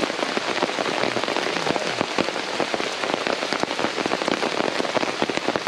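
Steady rain pattering in woodland, a dense rush of many small drops.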